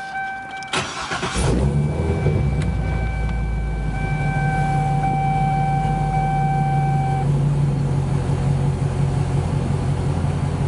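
2007 Chevrolet Corvette's 6.0-litre V8 with a Borla aftermarket exhaust starting up about a second in, then settling into a deep, steady idle. A steady electronic chime from the car runs alongside and stops about seven seconds in.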